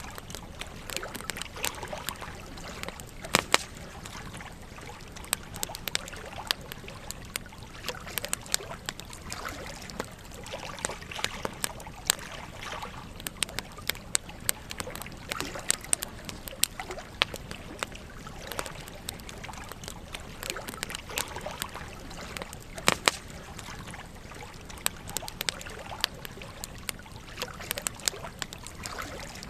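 Campfire burning, wood crackling and popping irregularly over a steady hiss of flame, with a few louder pops about three and a half seconds in and again near 23 seconds.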